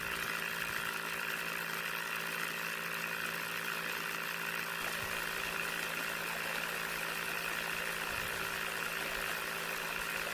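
Small DC motor running steadily at constant speed, a continuous hum with a whine above it.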